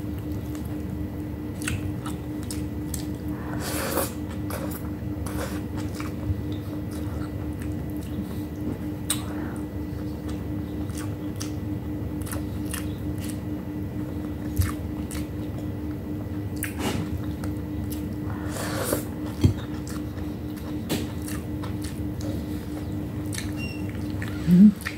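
Close-up wet chewing with many small mouth clicks, from someone eating boiled vegetables, egg and rice by hand. A steady low hum runs underneath.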